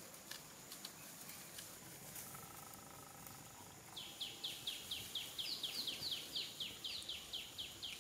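A bird calling in a rapid, even series of short, high, descending chirps, about five a second, starting about halfway through, over faint ticking and rustling.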